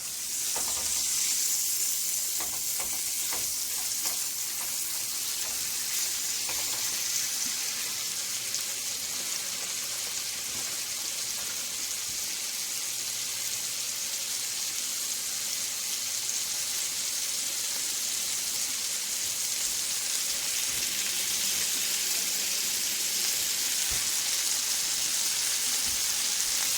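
Skin-on chicken breast frying in butter in a pan, a steady sizzle throughout, with a few faint clicks of stirring in the first few seconds.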